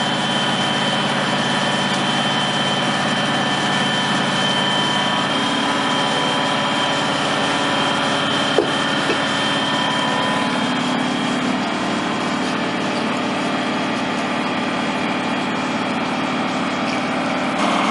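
An engine running steadily at a constant speed, with one short knock about eight and a half seconds in.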